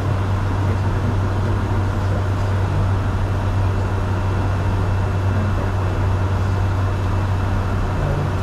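Steady cockpit noise of a Bombardier Challenger 605 jet in the climb after take-off: the rush of airflow and engine noise over a strong, steady low hum.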